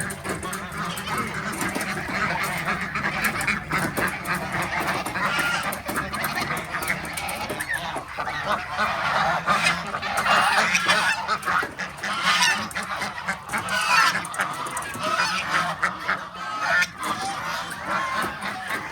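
A flock of farm birds calling at once, many overlapping calls throughout, getting louder a little under halfway in and easing off again near the end.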